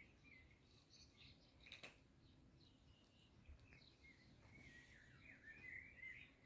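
Faint birds chirping and warbling in the background, loudest near the end, with a single sharp click about two seconds in.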